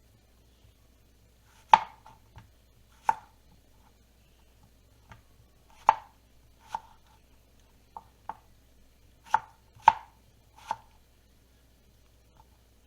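Knife chopping on a cutting board: about a dozen separate, unhurried strokes at uneven spacing, with a pause of a couple of seconds early on.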